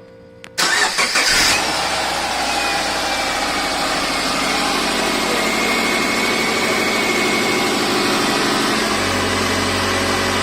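Subaru Forester flat-four engine cranked on the starter and catching after about a second, then settling to a steady idle; a low hum joins near the end. This is the refreshed original engine running after being reinstalled.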